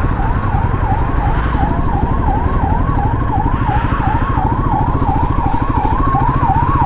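Emergency vehicle siren in fast yelp mode, its pitch sweeping up and down about three times a second, over the steady running of a motorcycle engine.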